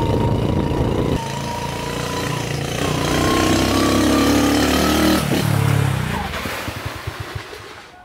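Restored 1982 Honda Super Cub's 50cc single-cylinder four-stroke engine running. Its note changes about a second in, revs up in the middle, then fades away near the end.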